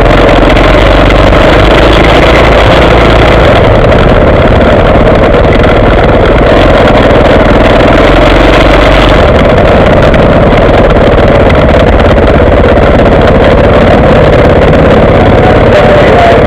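Motocross bike engine running steadily, very loud through the onboard action camera's microphone.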